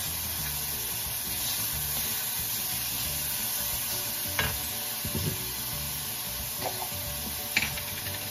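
Ground pork sizzling as it fries in a stainless steel pan, stirred with a wooden spatula, with a few sharp scrapes and taps of the spatula against the pan, the loudest near the end.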